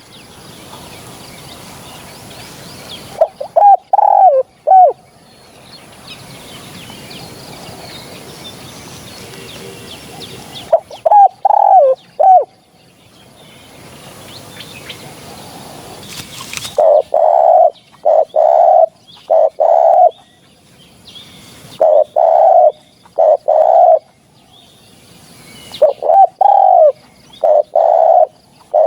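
Spotted doves cooing: short phrases of several low coos about 3 s and 11 s in, then phrase after phrase in quick succession from about 17 s on, over a faint hiss.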